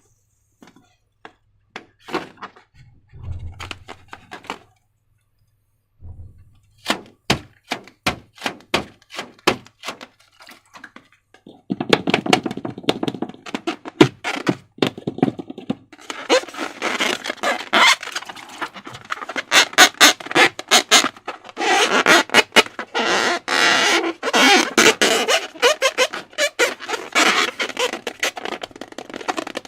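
Slime being worked by hand: a few scattered sticky clicks, then a run of evenly spaced sharp clicks, then from about halfway in a dense, wet crackling squelch that keeps going.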